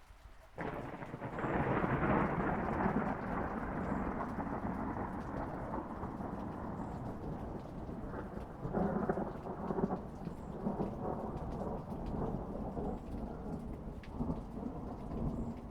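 Thunder rolling over steady rain: a rumble breaks in suddenly about half a second in, swells over the next couple of seconds, then keeps rolling with further surges near the middle and toward the end.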